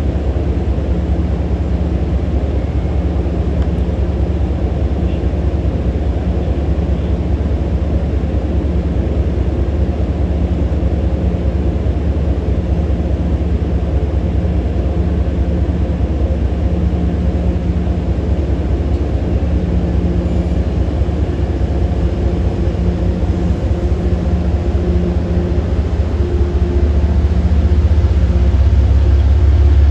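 Diesel locomotive engine running steadily with a deep, even rumble, growing louder over the last few seconds.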